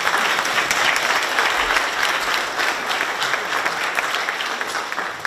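A congregation applauding: many people clapping at once, steady and easing slightly toward the end.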